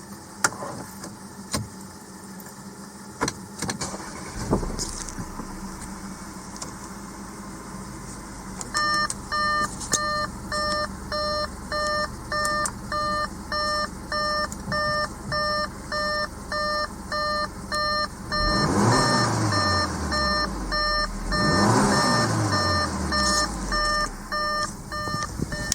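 Audi A5's 2.0 TFSI turbocharged four-cylinder engine (CDN) starting and idling, with the car's warning chime beeping steadily about twice a second. The engine is revved up and back down twice near the end.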